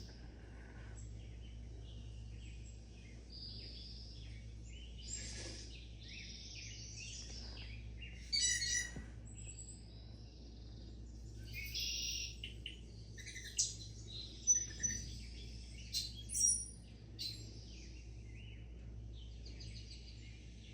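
Small birds chirping and calling in short, scattered notes, with a busier, louder run of chirps through the middle. A faint steady low hum runs underneath.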